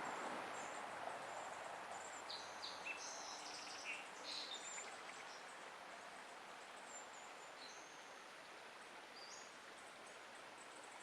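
Outdoor ambience with small birds chirping, a cluster of short high chirps in the first half and a couple more later, over a steady hiss that slowly grows quieter.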